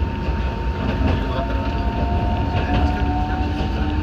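Enoshima Electric Railway (Enoden) train running, heard from on board: a steady low rumble with a faint electric whine that comes in about a second in.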